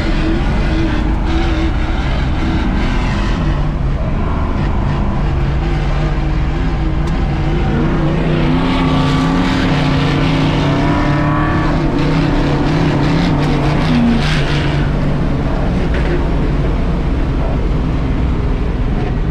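Class 1450 off-road race truck's engine running hard under load, its pitch rising and falling with the throttle over a steady rushing noise.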